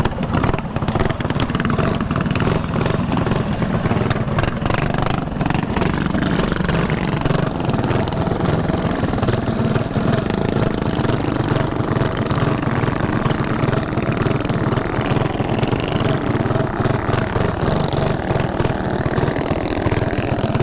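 Mini bike's small engine running steadily, heard close through a chin-mounted helmet camera, with a constant rough rattle over it.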